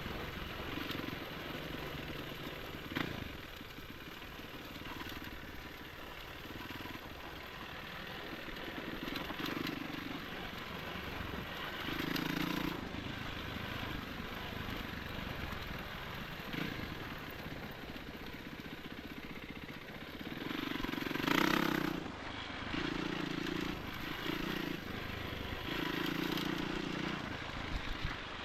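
Enduro motorcycle engine running under way, its pitch rising and falling with the throttle, with one short, sharp rev a little past two-thirds through.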